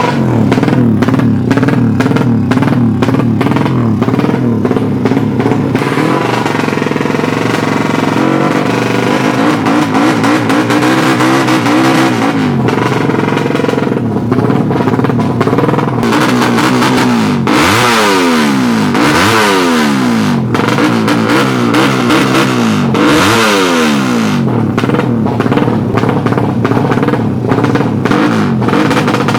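Heavily tuned 200cc underbone (bebek) drag motorcycle engines running loud and revving, the pitch repeatedly rising and falling in the second half.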